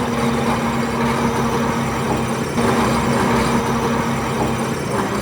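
Heavy diesel engine of earthmoving machinery running at a steady pitch, with a rough, noisy clatter over it.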